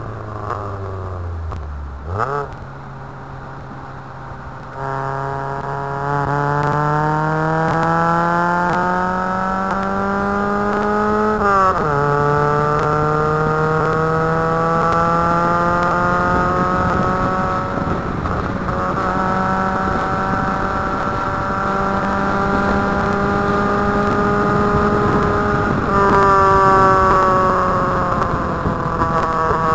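Nissan 100NX's four-cylinder engine on a hard lap. It runs low and quiet off the throttle for the first few seconds, then pulls with a steadily rising pitch. About twelve seconds in the pitch drops sharply at a gear change, then climbs slowly and holds, and falls away in the last few seconds as the revs come down.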